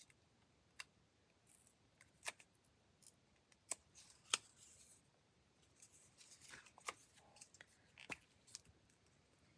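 Faint paper-craft handling: scattered sharp snips and clicks, about eight across the stretch, with brief soft rustling of paper in between.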